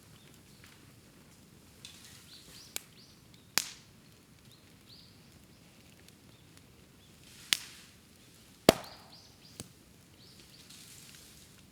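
Bamboo burning in an open bonfire, popping with sharp, loud cracks as the heated culms burst, five times with the loudest about two-thirds of the way through, over a soft fizzing hiss from the fire.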